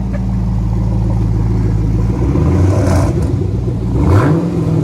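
Camaro SS V8 running through a freshly installed SLP Loudmouth aftermarket exhaust: a steady idle, then revved twice, once about two and a half seconds in and again with a rising rev about four seconds in.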